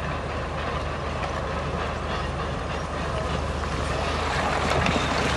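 Crawler bulldozer at work: heavy diesel engine running under load with the steady clatter and squeal of its steel tracks, getting louder near the end.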